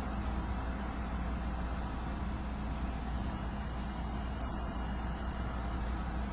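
Steady recording noise in an empty room: a low hum and even hiss, with a thin high-pitched whine from the camera's hard drive that shifts higher about halfway through and drops back near the end.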